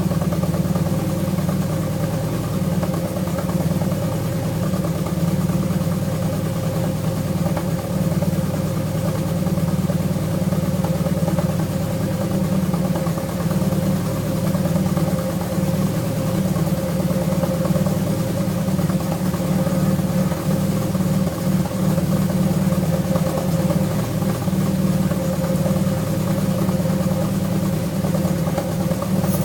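Alfa Romeo V6 engine idling steadily while warming up after winter storage, with no revving.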